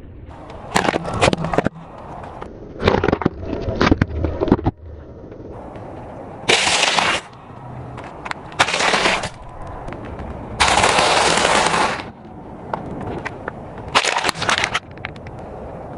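Crunching and crackling as brittle things are crushed under a car tyre, in about half a dozen separate bursts of a second or so, full of sharp snapping clicks.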